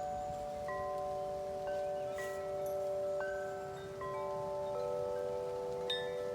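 Wind chimes ringing in the wind: metal tubes are struck at irregular moments, about one new note a second, and each tone rings on long so that several overlap.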